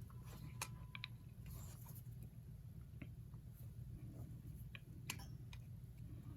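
Faint, scattered small clicks of a metal tool working the notched screw-on case back of a wristwatch to turn it open, over a steady low hum.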